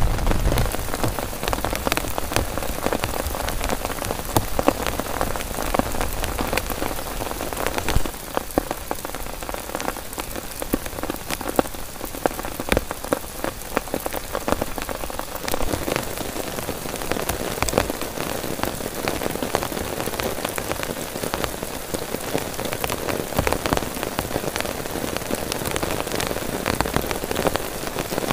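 Heavy rain falling on a nylon tent fly and the surrounding forest: a steady hiss with many sharp individual drop hits. A low rumble fades out in the first second.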